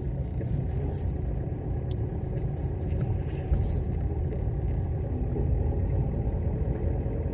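Steady low rumble of a running car heard from inside the cabin: engine and road noise, with no heater fan on.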